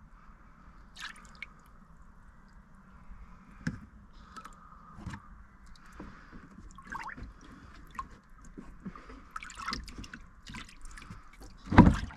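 Scattered light clicks, taps and rustles of hands rummaging around in a car's engine bay for a dropped plastic part, with one louder knock near the end.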